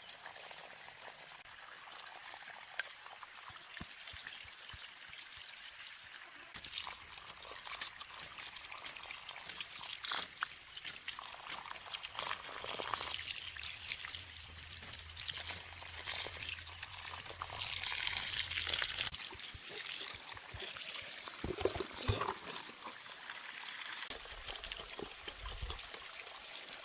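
Water trickling steadily, with a few brief sharper sounds scattered through.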